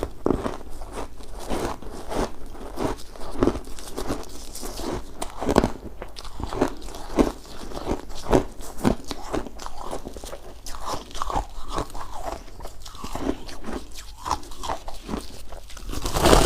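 Close-up chewing of shaved ice: a steady run of sharp, crisp crunches, often one or two a second, as the ice is bitten and crushed between the teeth, with a louder crunching flurry near the end.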